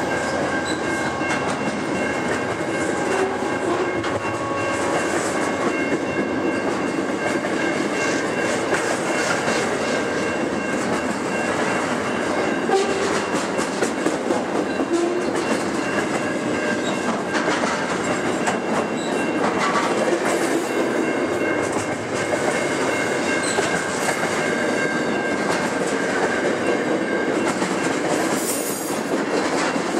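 Loaded container wagons of a freight train rolling past on steel rails: a steady loud rumble of wheels with many clicks and clacks over the rail joints, and a faint thin squeal from the wheels above it.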